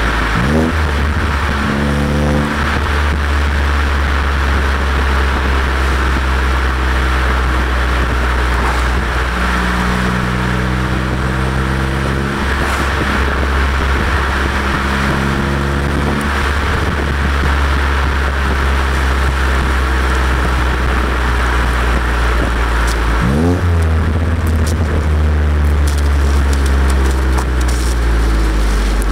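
BMW E90 335i inline-six running through an Autobahn Exotics exhaust with high-flow secondary cats and catless downpipes, heard from the rear of the moving car. A deep steady drone carries engine tones that climb and step in pitch, with quick rises in revs about a second in and again near the end. Steady wind rush lies over the microphone.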